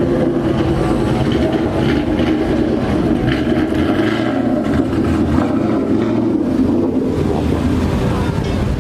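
Wind buffeting a camera's built-in microphone, a loud, steady rumble, with a low hum underneath that fades about seven seconds in.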